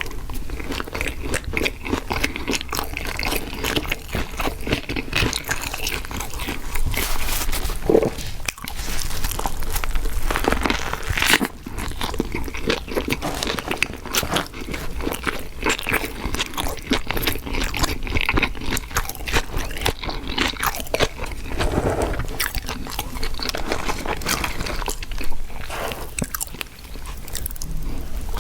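Close-miked crunching, biting and chewing of fast food, a steady run of crackly crunches with a couple of brief pauses.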